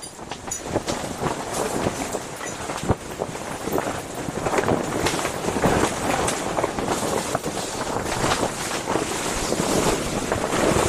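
Strong wind gusting against a tent, the fabric flapping and rattling while the wind rumbles on the microphone. It builds over the first couple of seconds, then stays loud.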